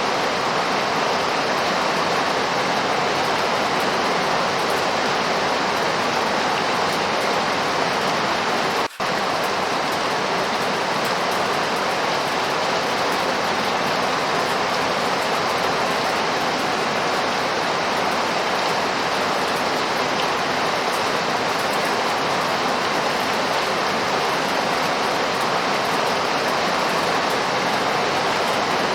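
Steady heavy rainfall, an even continuous hiss of falling water, broken by a momentary dropout about nine seconds in.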